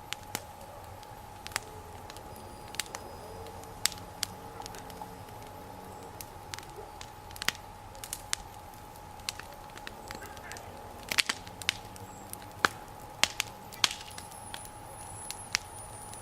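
Wood campfire crackling, with sharp irregular pops and snaps from the burning wood, busiest in the last few seconds.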